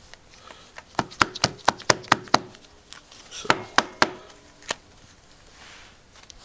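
A leather wallet handled and knocked against a surface: a quick run of about seven sharp taps in a second and a half, then a few more spaced taps.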